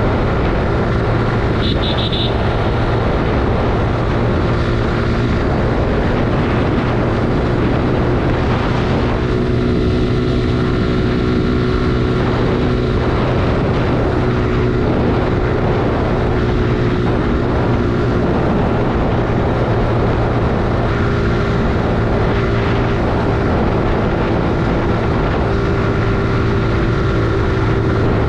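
Suzuki Gixxer 155's single-cylinder engine running steadily under way, with a constant rush of noise over it and a brief high beep about two seconds in.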